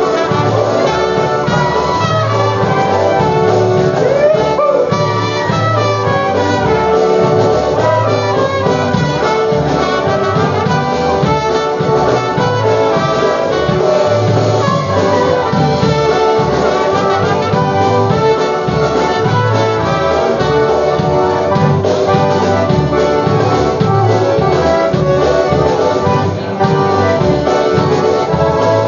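Live polka band playing an instrumental passage between sung verses, horns carrying the tune over a steady oom-pah bass beat.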